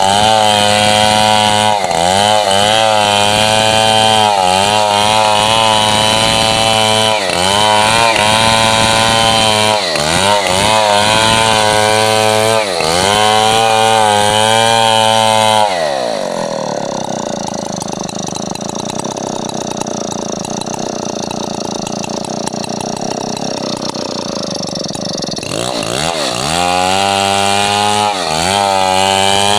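Stihl MS 070 two-stroke chainsaw at high revs cutting coconut wood, its pitch sagging and recovering again and again as the chain bites. About halfway through the engine falls to a low idle for roughly ten seconds, then revs back up and goes on cutting, bogging under load once more near the end.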